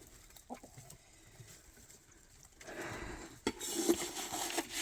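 Chickens pecking and scratching at scattered feed, with light scattered clicks. A louder rustling sets in a little past halfway.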